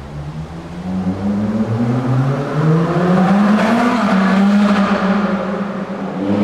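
Supercar engines accelerating in a road tunnel. The engine note climbs in pitch over the first few seconds, then holds high and loud. It dips briefly and swells again near the end as the next car comes through.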